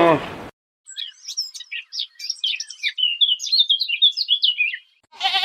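A songbird singing a fast, varied run of high chirps and short trills for about four seconds. A bleat begins right at the end.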